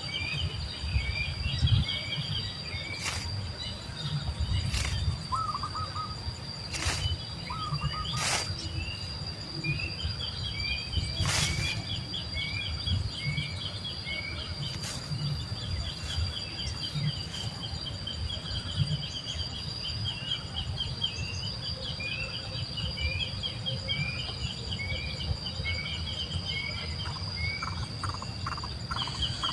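Bird chirps, short and falling, repeated in quick runs, over a steady high-pitched insect drone. A low rumble runs underneath, and a few sharp clicks come in the first half.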